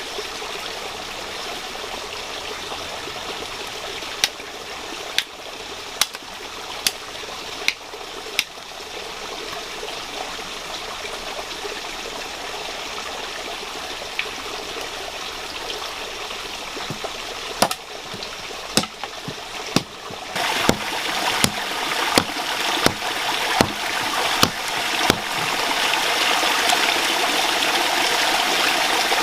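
Running water with a steady rushing sound that grows louder in the second half. Over it come sharp knocks: about one a second for a few seconds early on, then a faster run of knocks in the second half.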